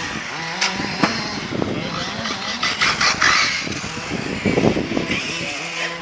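Radio-controlled car running, mechanical and noisy, with several sharp clicks and knocks.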